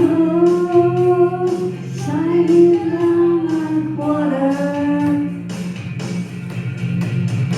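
Karaoke singing over a rock backing track: three long, held sung lines, then the voice stops about five and a half seconds in and the backing band carries on alone.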